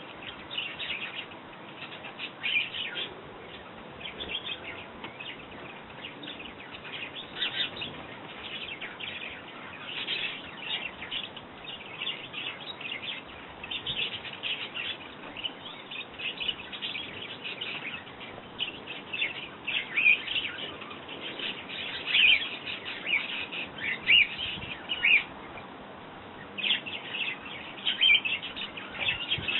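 Sparrows chirping over and over, many short chirps one after another, with a brief pause a few seconds before the end.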